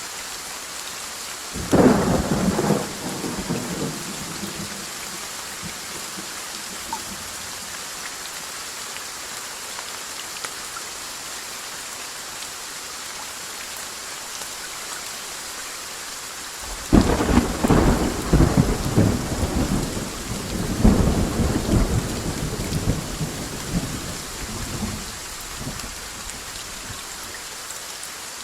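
Steady rain hissing on surfaces, with a short thunderclap about two seconds in and a longer rolling peal of thunder from a little past halfway that rumbles for several seconds.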